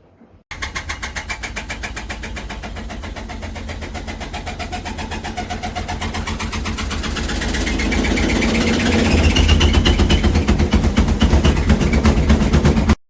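Front-loading washing machine spinning up: a motor whine climbs steadily in pitch over a fast even pulsing of the turning drum, and the sound grows louder as the spin speeds up. It starts and cuts off abruptly.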